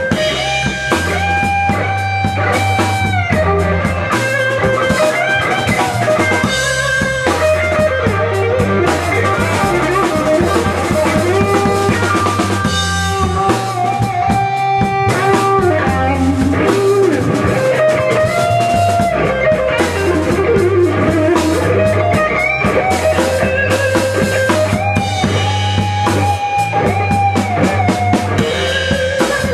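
Blues-rock instrumental break: a lead guitar plays held, bending notes over drum kit and bass.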